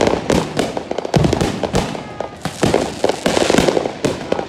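Fireworks going off in a rapid string of bangs, pops and crackles, with a denser hissing crackle of sparks about three seconds in.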